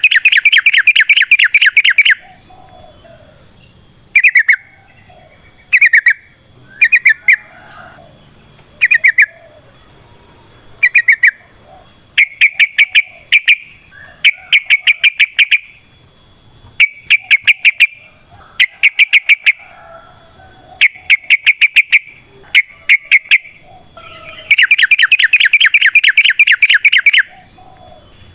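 Yellow-vented bulbul (trucukan) singing its long, fast rattling chatter: rapid strings of sharp repeated notes. The long runs come at the start and near the end, with shorter bursts and brief pauses between.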